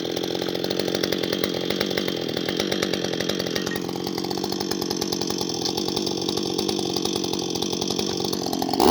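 Husqvarna 560XP two-stroke chainsaw running steadily at high speed, its note changing slightly about four seconds in.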